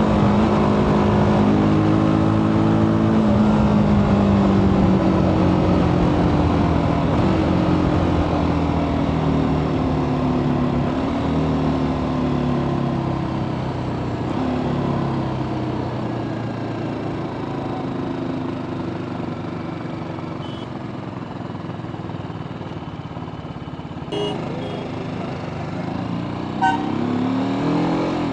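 TVS Apache RTR 310's single-cylinder engine through its stock exhaust while riding. The note falls in a series of steps as the bike slows down through the gears, then rises again near the end as the throttle is opened. A couple of short clicks come in the last few seconds.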